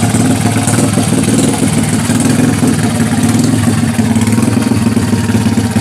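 Single-cylinder four-stroke engine of a custom Honda Cub-based chopper idling steadily through a newly fitted 'bambu runcing' exhaust pipe.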